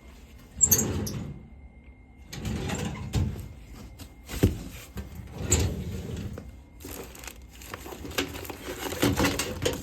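Irregular knocks, clunks and rustling from someone moving about and handling things in a small room, with sharp knocks about half a second, four and a half and five and a half seconds in.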